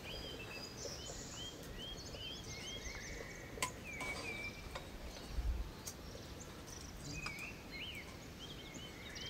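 Birds chirping: one repeats a short rising-and-falling note about twice a second, with higher calls in between. A sharp click comes about three and a half seconds in, and a low thump a couple of seconds later.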